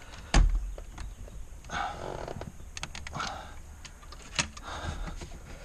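Plastic dash trim on a Subaru XV being tugged and worked loose by hand, held back by a connector behind it. A heavy thump about half a second in, then creaking and rubbing of plastic, with a sharp click about four and a half seconds in.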